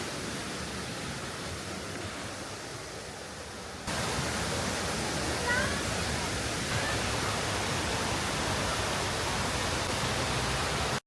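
Düden Waterfall's falling water, a steady rushing hiss, stepping up abruptly to a louder take about four seconds in.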